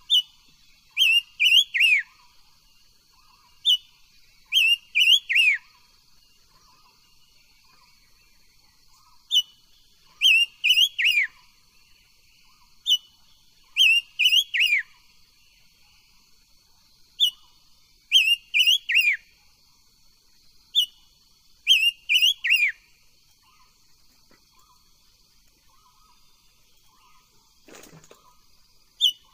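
A leiothrix (chim ngũ sắc) singing a short whistled phrase repeated every few seconds: one high note, then a quick run of three or four notes falling in pitch.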